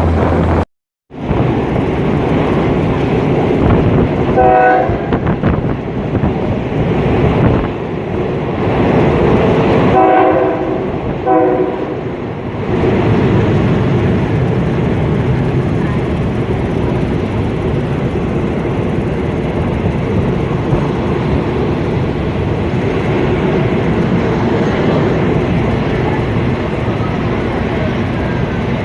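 Train running with a steady rumble, its horn sounding briefly about four and a half seconds in and twice more at about ten and eleven seconds.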